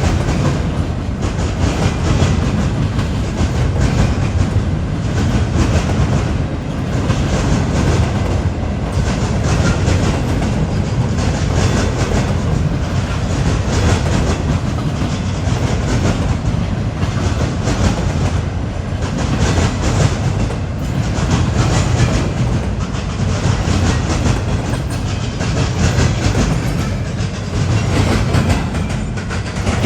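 Freight train rolling past at close range, its wheels clacking steadily over the rail joints, loud and unbroken throughout.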